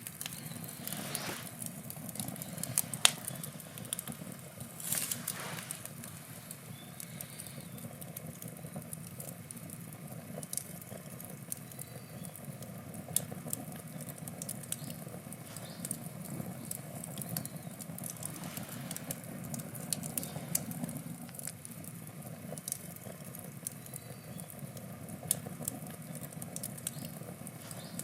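Wood fire burning, crackling with frequent sharp pops over a steady low rush of flame. One pop about three seconds in is the loudest, and there are brief hisses about a second in and about five seconds in.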